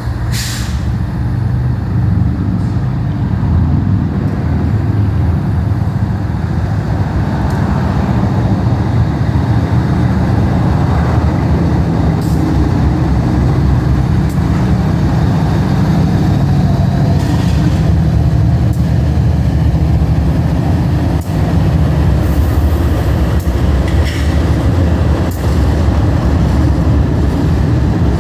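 BNSF diesel-electric locomotive engine running with a steady low drone, with a few short sharp clanks scattered through it.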